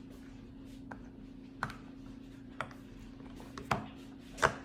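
Silicone bubbles of a mini puzzle-piece pop-it fidget being pressed: a handful of short, sharp pops at uneven spacing, the loudest near the end, over a faint steady hum.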